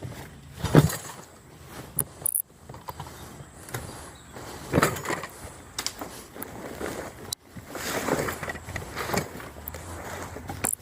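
Irregular thumps, knocks and clatter of junk being handled and set down, with rustling in between; the loudest knock comes about a second in.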